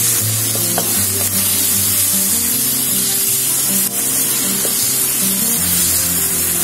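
Onions and tomatoes sizzling in hot oil in a kadai while a wooden spatula stirs them, the sauté stage of the masala. Background music plays under the frying.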